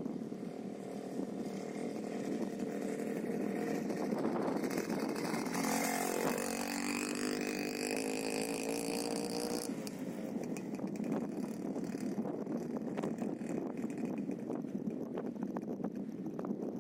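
Minsk motorcycle's two-stroke engine running. From about four and a half to ten seconds in, a second, higher engine note dips and rises in pitch, then cuts off abruptly.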